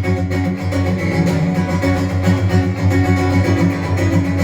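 Live band playing a song's instrumental intro, led by strummed guitar with bass, in a steady rhythm.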